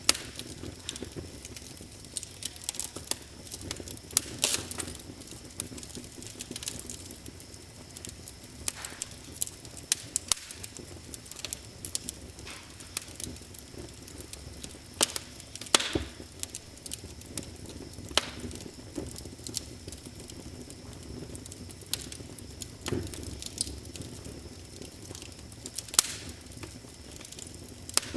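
Wood fire in a fireplace burning and crackling, with irregular sharp pops and snaps over a steady low hiss.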